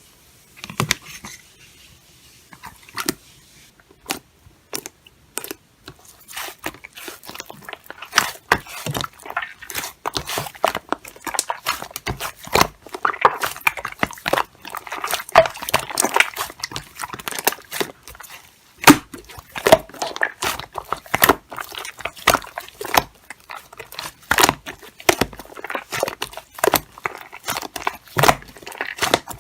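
Typing on a computer keyboard: irregular keystroke clicks, a few scattered ones at first, then a fast, dense run from about six seconds in, with a short pause about two-thirds of the way through.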